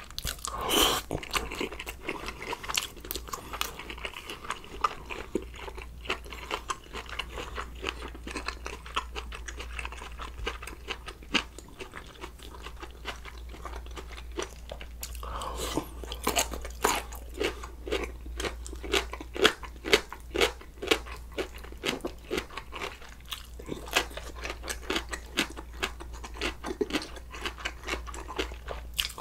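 Close-miked eating: wet chewing and crunching with many small mouth clicks, a person eating sausage stew with noodles and kimchi. The chewing grows louder and busier about halfway through.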